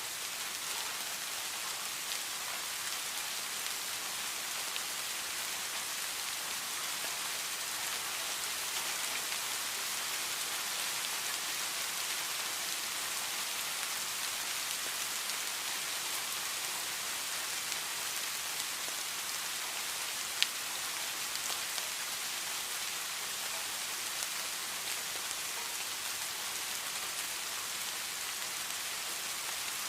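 Steady heavy rain falling, an even hiss of drops on surfaces with no letup, and a single sharp drip or tap about two-thirds of the way through.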